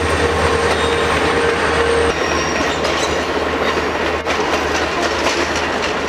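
A train passing close by: a loud steady rumble with a high metallic wheel squeal and a low drone that drop away about two seconds in, followed by the rapid clatter of the cars' wheels over the rail joints.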